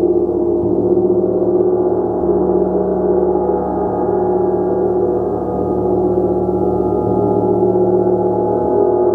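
A gong played continuously in a steady, sustained wash of many overlapping tones, its low tones changing every couple of seconds as it is struck again.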